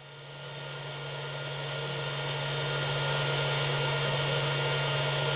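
Home-built induction-heated solder pot's heater running during one of the temperature controller's on-pulses near its 180 °C set point: a steady mains hum over a hiss that grows louder over the first couple of seconds, then holds.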